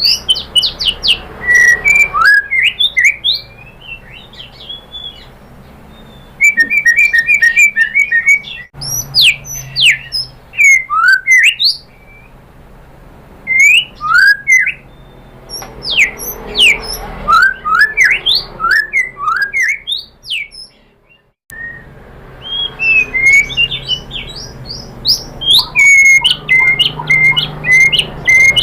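White-rumped shama singing loud phrases of varied whistles, sweeping notes and rapid repeated trills, with short pauses between phrases. Near the end the song settles into a fast run of repeated short notes.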